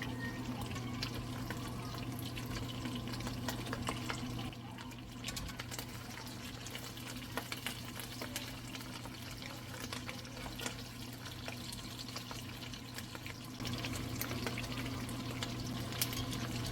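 Water running, with scattered small clicks and knocks of handling. Under it is a steady low hum that stops about four and a half seconds in and comes back near the end.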